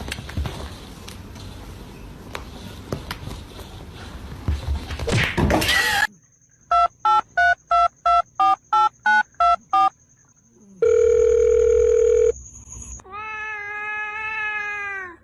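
About six seconds of noisy rustling with clicks, then a run of about ten short electronic beeps like telephone dialing tones, a steady tone, and a longer tone that falls in pitch at its end.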